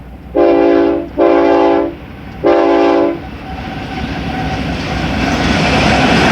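Diesel freight locomotive's air horn sounding three blasts, each a chord of several notes under a second long. After them the rumble and rail clatter of the approaching train grows steadily louder.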